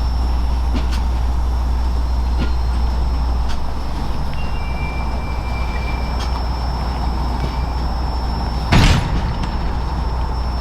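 Railway train rolling steadily with a continuous low rumble and a few scattered clicks. A single loud sharp knock comes just under nine seconds in.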